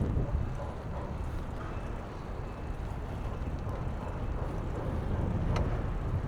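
Wind buffeting the microphone over a steady rumble of street traffic, with a single sharp click about five and a half seconds in.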